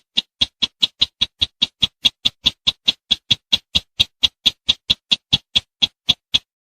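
Sintar semak bird calling: a rapid series of short, sharp ticking notes, about four to five a second, slowing just before the series stops near the end.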